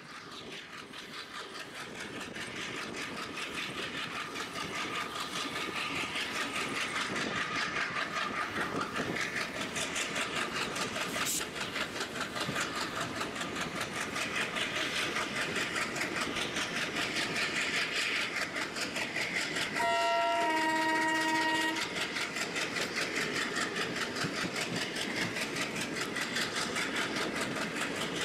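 Passenger train running, heard from a coach: steady rhythmic clatter of wheels over the rails with rattling coaches, fading in over the first few seconds. About twenty seconds in, the ALCo diesel locomotive's horn sounds for about two seconds, its pitch dropping partway through.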